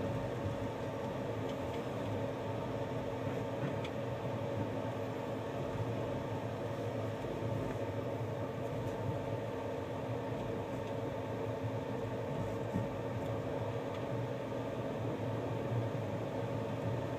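Steady running noise of a moving passenger train heard from inside the coach, an even rumble with a constant hum running through it.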